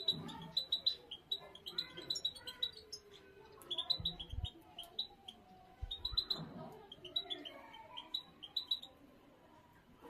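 Small cage birds chirping: many short, high chirps in quick runs, with lower warbling calls beneath. Two brief low thumps come about four and six seconds in.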